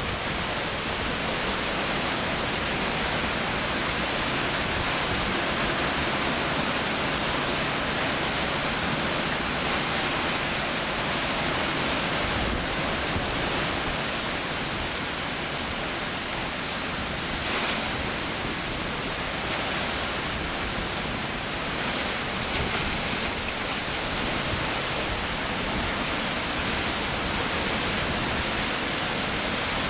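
Hurricane wind and heavy rain: a steady, dense rush of noise that swells and eases slightly.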